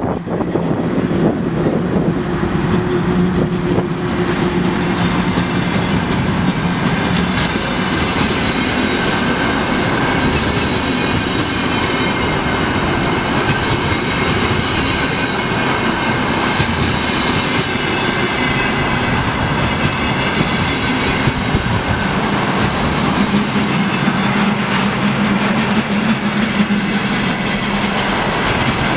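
Long freight train of loaded container flatcars rolling past at speed: a steady loud rumble of wheels on rails with clickety-clack over the rail joints. In the first several seconds, as the VL10U electric locomotive goes by, a steady hum sits under the rumble.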